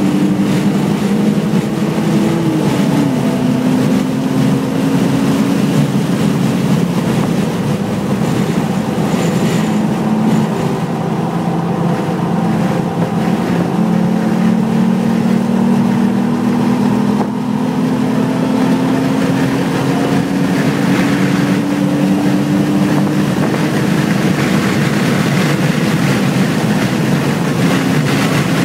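BMW 330 engine pulling hard at racing speed on a track lap. The pitch drops once about three seconds in, as at a gear change, then climbs steadily for a long stretch as the car accelerates.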